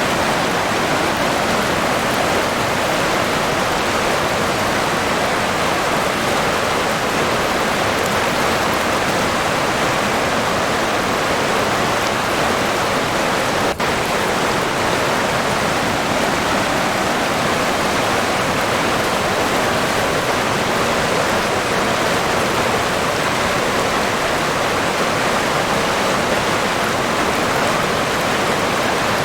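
River water flowing steadily, an even rushing noise that holds unchanged apart from a momentary dip about fourteen seconds in.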